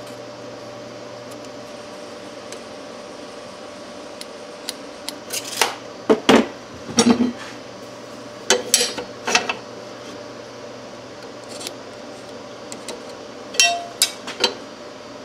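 Steel plate and metal tools being handled on a workbench: sharp metallic clinks and clanks in a few short bunches, over a steady hum.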